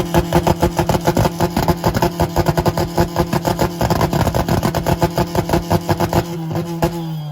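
Car engine held at high revs on a two-step launch-control rev limiter, with rapid exhaust pops and bangs several times a second. About six seconds in the engine is let off, and the engine note falls away toward idle.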